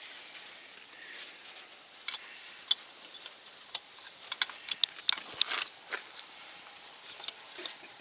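Hand tools and metal parts clinking during work on the tractor's oil filter or drain plug: a run of sharp, irregular clicks, busiest from about two to six seconds in.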